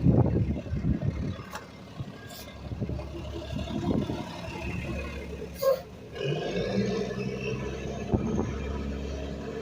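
Rear-load garbage truck running, with a loud clattering stretch in the first second. About six seconds in, the engine note rises to a steady higher running speed.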